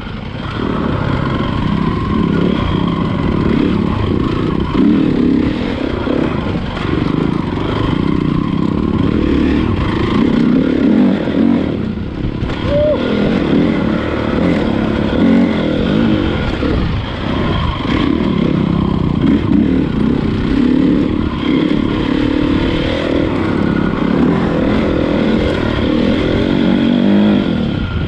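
Honda CRF450 motocross bike's single-cylinder four-stroke engine running hard while ridden, repeatedly revving up and easing off.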